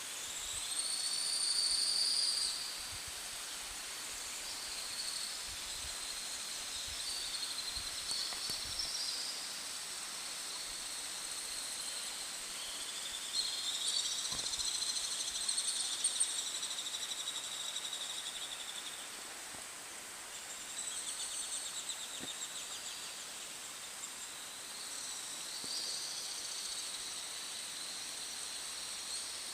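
Insects chirring in overlapping pulsed bursts several seconds long, over a steady background hiss.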